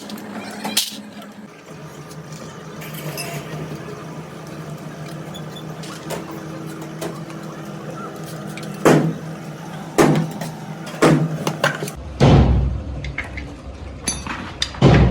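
A steady mechanical hum with several sharp knocks, about five of them spread through the second half, and a deeper rumble joining near the end.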